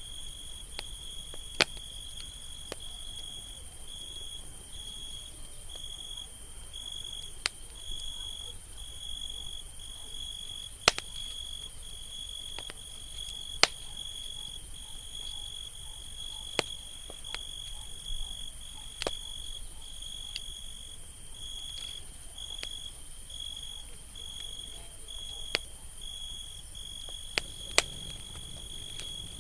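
Campfire crackling, with sharp pops every second or two at irregular intervals. Under it, a night insect chirps steadily in repeated high-pitched pulses, over a constant high hiss.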